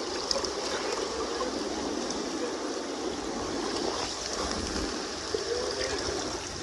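Fast-flowing Kenai River water rushing steadily, with a few faint small clicks over it.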